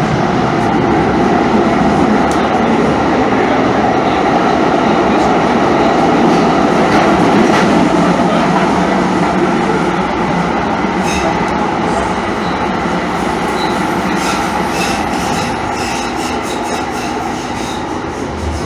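Calgary CTrain light-rail train running, a steady rumble of wheels on track, with faint squeaks and ticks in the second half.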